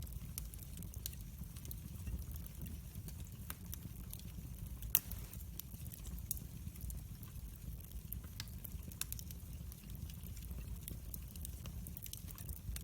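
Wood fire in a fireplace crackling, with irregular small pops and one louder pop about five seconds in, over a low steady rumble of the flames.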